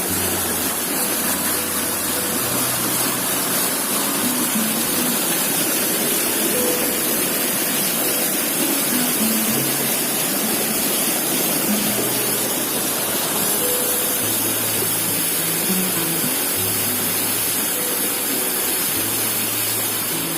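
Loud, steady rushing of floodwater, with background music of slow low notes changing in steps underneath.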